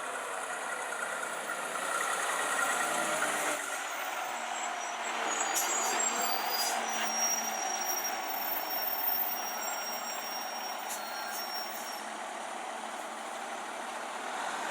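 Fire apparatus running: steady heavy diesel truck engine and road noise, with the deeper engine sound dropping away about three and a half seconds in.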